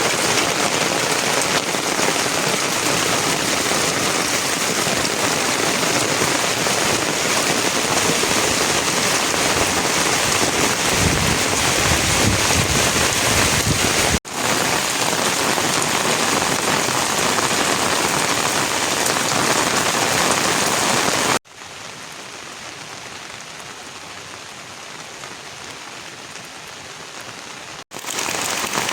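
Heavy rain falling steadily, a dense even hiss, with a brief low rumble about eleven seconds in. The sound breaks off abruptly twice, and for several seconds near the end the rain is quieter.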